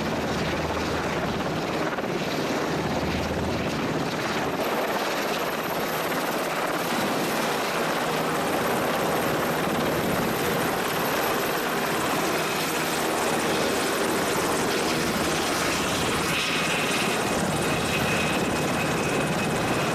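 A helicopter flying, its rotor and engine noise a steady, unbroken rush.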